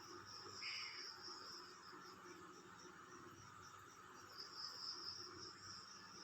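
Crickets and other night insects chirring steadily in a faint, high, pulsing trill that swells louder about four and a half seconds in.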